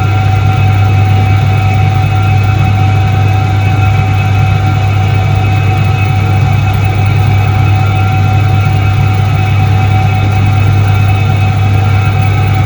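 A 1978 Soviet Iset-3 washing machine running. Its motor gives a loud, steady low hum with a constant higher whine, and neither changes.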